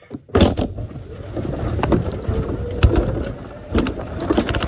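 Golf cart pulling away about half a second in, then driving with a steady rumble and scattered rattles and knocks, with wind on the microphone.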